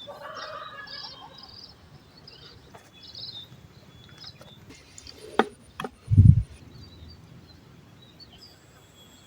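Small birds chirping over outdoor background noise, then two sharp clicks and a loud, brief low thump about six seconds in.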